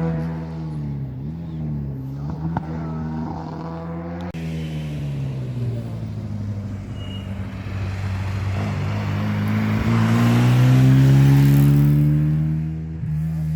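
Historic rally car engines at full effort on a special stage. First one car's engine note rises and falls through the revs; then, after a cut, another rally car approaches, growing louder to pass about three-quarters of the way in and falling away.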